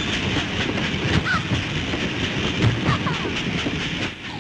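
Cartoon sound effect of a moving freight train: a steady, dense clatter of wheels running over the rails, with a couple of short high squeaks along the way.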